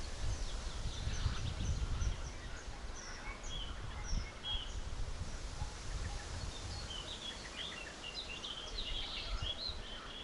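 Several small songbirds chirping and trilling, with the busiest run of song near the end, over a low rumble.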